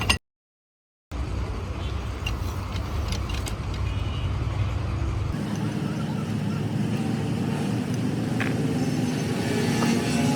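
Steady low rumble of a running motor vehicle, with a few light clicks. The sound drops out briefly near the start and changes character about five seconds in.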